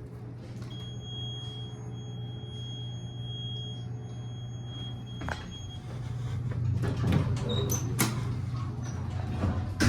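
Older Otis elevator in operation: a steady low hum, with a thin high whine for about five seconds. Then a click, a louder rumble, and several sharp clicks and knocks in the second half.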